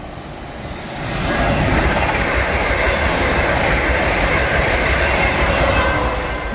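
Electric multiple-unit passenger train passing on the main line. The rush of wheels on rail swells about a second in, holds steady with a faint whine and fades near the end.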